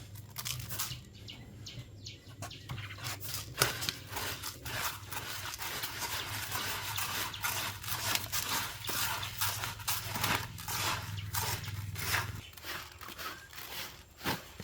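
Chickens and ducks pecking and scratching at chopped green banana: a dense run of quick, irregular clicks and crackles, with a steady low hum underneath that stops near the end.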